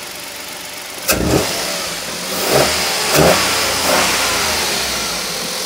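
Hyundai i10's 1.0-litre three-cylinder Kappa (G3LA) petrol engine, running on a newly replaced timing chain, revved up and down a few times after a sharp knock about a second in. The shushing that a stretched chain had caused is much reduced, though a faint whine remains.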